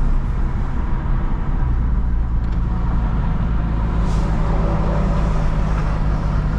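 Lexus IS350's 3.5-litre V6 droning steadily at cruise through a straight-through exhaust: a Tsudo mid-pipe with no secondary cats and small resonators, and a muffler-delete axle-back. The drone drops to a deeper note about a second and a half in.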